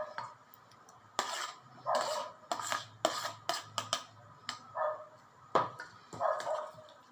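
Utensils clinking and knocking against dishes, a string of sharp clicks, with a dog giving a few short barks in between.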